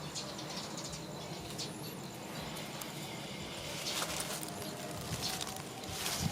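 Light rustling and tapping over steady outdoor background noise, with a brief high chirp early on and a cluster of sharper ticks near the end.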